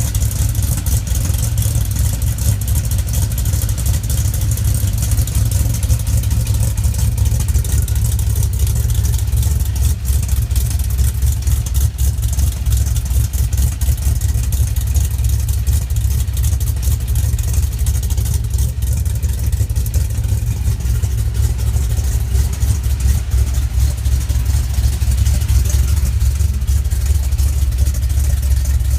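A 1970 Chevy C10's 350 small-block V8, with a Comp Cams Mutha Thumpr cam, Hedman headers and 2.5-inch Magnaflow exhaust, running at a steady idle with a deep, pulsing exhaust rumble.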